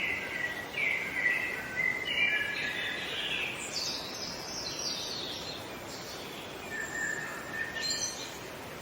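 Songbirds singing in short chirping phrases over a steady background hiss. The song is busiest in the first half, with a higher descending run about four seconds in, and a single held whistle shortly before the end.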